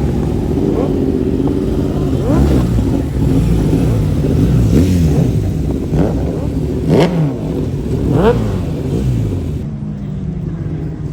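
Engines revving hard again and again, each rev a quick rising sweep, over a steady low engine rumble. The sharpest revs come about two and a half, five, seven and eight seconds in.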